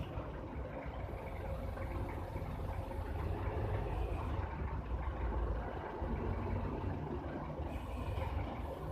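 Steady low rumble of machinery or an engine running, with a faint steady hum above it.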